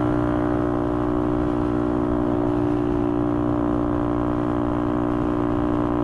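Motorcycle engine and exhaust running steadily at a constant cruising speed, one even note with no change in revs, over road noise.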